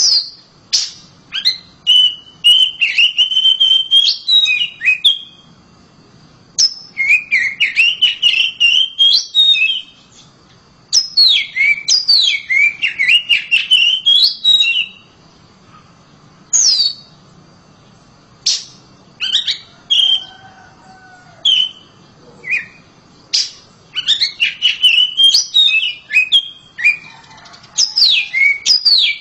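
Oriental magpie-robin singing loudly: phrases of varied whistled notes sweeping up and down, separated by short pauses, with a stretch of single separate notes about halfway through.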